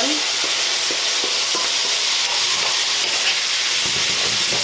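Chicken pieces sizzling steadily in hot oil in a pot, with a few light knocks from a spoon stirring them in the first second or two.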